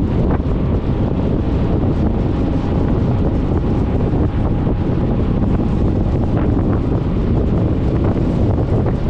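Steady, loud wind rush buffeting the microphone of a camera mounted on a moving Suzuki Burgman 400 scooter, heaviest in the low end, with the scooter's running noise underneath.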